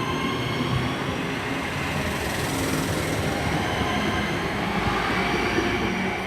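Class 323 electric multiple unit pulling away from the platform: the whine of its traction motors rises in pitch as it speeds up, over the rumble of wheels on rail, and begins to fade near the end.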